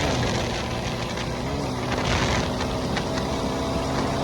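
Dirt bike engine running under throttle while riding, its note mostly steady with a brief rise about one and a half seconds in, over a constant rushing noise.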